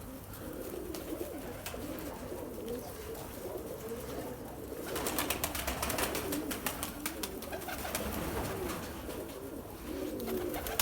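Several domestic pigeons cooing continuously, with a flurry of quick clicks about halfway through.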